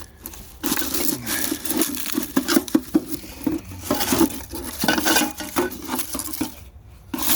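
Loose metal tools being rummaged through in a metal ammo box, clinking and rattling irregularly.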